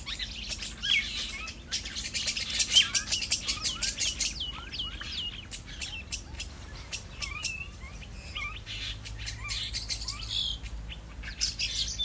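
Many small birds chirping, a dense chorus of quick overlapping chirps and short whistled notes.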